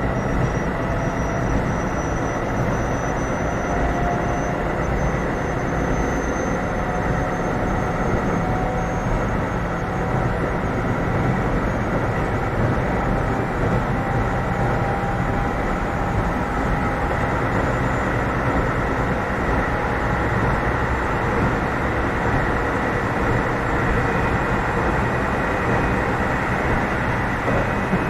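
Keio 7000 series electric train running, heard inside the passenger car: a steady rumble of wheels on rail, with thin whining tones that rise slowly in pitch.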